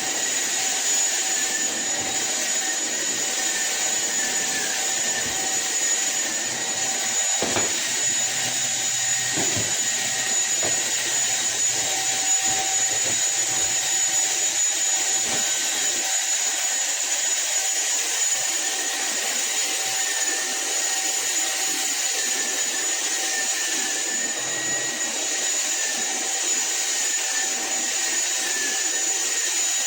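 SunSare cordless stick vacuum cleaner running steadily, its motor giving a high-pitched whine over a rushing hiss of airflow. A couple of brief knocks come about seven and nine seconds in.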